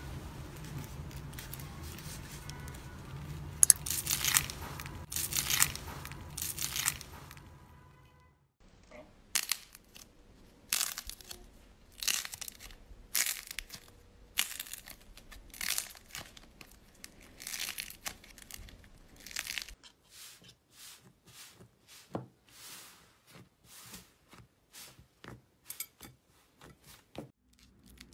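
Crunchy slime being squeezed and pressed by hand, crackling and popping in short bursts, roughly one press a second after the first third, over a low hum at the start.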